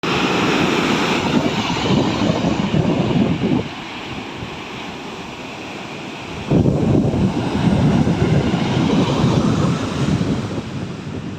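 Wind buffeting the microphone over the wash of breaking surf, in two loud spells: the first eases about three and a half seconds in, the second starts about six and a half seconds in and fades near the end.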